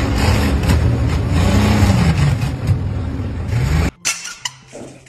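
A heavy engine running loud, its pitch rising and falling as it revs, cutting off abruptly about four seconds in and followed by a few faint knocks.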